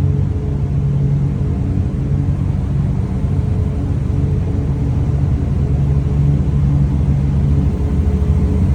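Hypercar engine running steadily at idle: a deep, even engine note that holds its pitch throughout.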